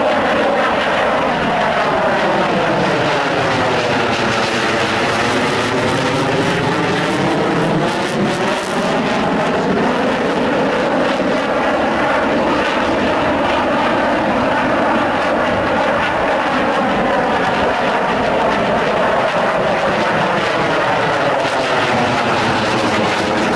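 Sukhoi Su-27 fighter's twin AL-31F turbofan jet engines, loud and steady through a display pass. The tone sweeps down and back up as the jet passes.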